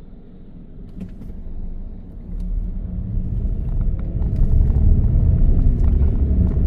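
Car cabin noise building as the car pulls away: a low rumble of engine, tyres and wind that grows much louder from about two seconds in, then holds steady.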